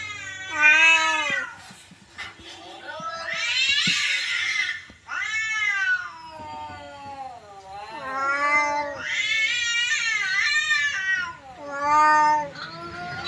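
Domestic cat meowing again and again in long, drawn-out yowls, about six calls with the pitch bending up and down.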